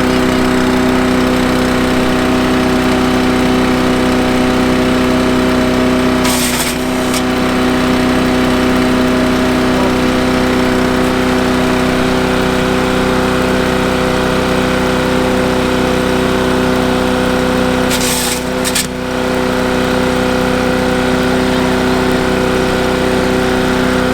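Small single-cylinder 212cc gas engine of a wood chipper-shredder running at a steady speed. Two short noisy bursts break in, about six seconds in and again near eighteen seconds.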